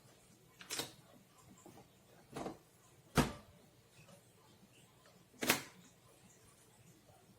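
Four separate clicks and knocks, as of hard parts being handled, about a second or two apart, the third the loudest, with quiet between them.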